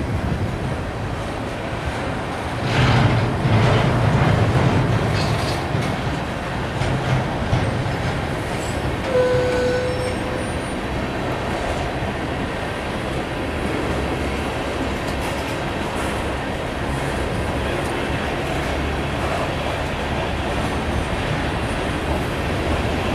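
Tank cars of a freight train rolling slowly past, held to about 10 mph by a speed restriction: a steady rumble of steel wheels on rail that swells for a couple of seconds about three seconds in, with a short squeal about nine seconds in.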